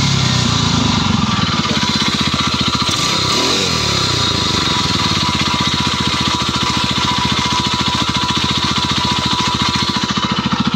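Small four-stroke engine, treated with RVS additive in its oil, running with a fast, even beat and a brief rise and fall in revs about three and a half seconds in. The owner hears no heavy anvil-like knock any more, only a faint meshing or scraping noise.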